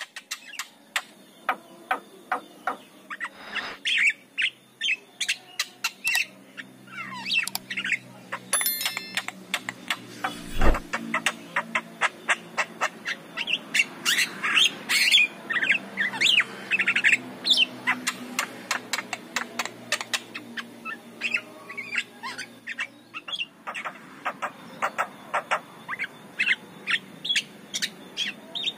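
Javan myna singing: a rapid, varied run of sharp clicks, chirps, whistles and squawks, busiest around the middle. A single loud thump about ten seconds in.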